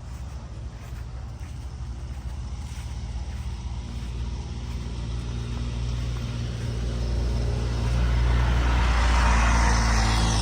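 A vehicle's engine approaching with a low steady hum, growing louder throughout and passing close near the end, its pitch dropping as it goes by.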